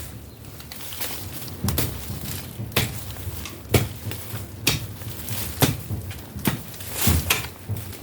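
Jembe (heavy hand hoe) chopping into garden soil, striking about once a second with dull thuds and a little scraping.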